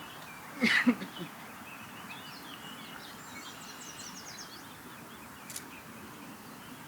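Birds chirping: a quick series of high, short chirps a few seconds in, over steady outdoor background hiss, with one brief louder sound just before a second in.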